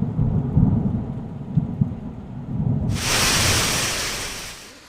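Thunder rumbling low and unevenly during a rainstorm. About three seconds in, a sudden loud hiss starts, then fades away near the end.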